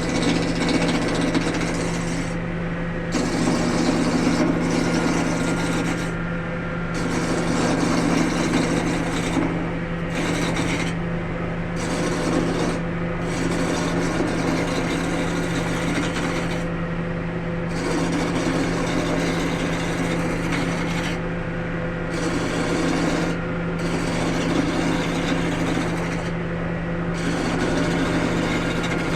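Wood lathe running with a steady motor hum while a tool works the spinning wood, scraping in stretches of a few seconds with short breaks between passes.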